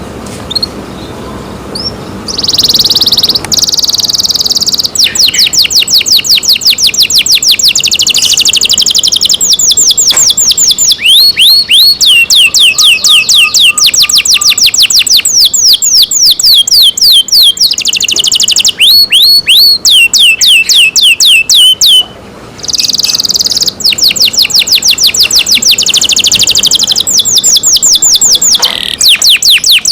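Domestic canary singing loudly in long runs of rapid repeated whistled notes, each note a quick downward sweep, the runs changing from one note type to the next, with a short break about two-thirds of the way through.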